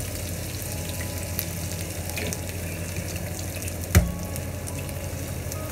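Garlic, ginger and egg sizzling in hot oil in a wok, with a single sharp knock about four seconds in.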